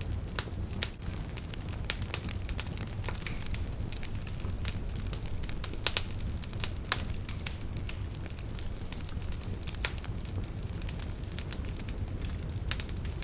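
Campfire burning: a steady low rumble of flames with frequent irregular crackles and pops, a few louder snaps among them.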